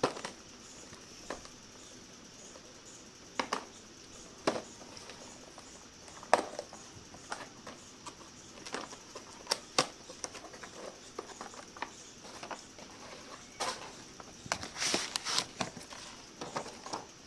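Scattered clicks, taps and rustles of a headset's box and packaging being handled as its contents are taken out, with a longer rustle about fifteen seconds in.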